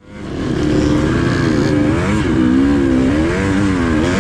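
Dirt bike engine revving, its pitch rising and falling repeatedly as the throttle is worked. The sound fades in at the start.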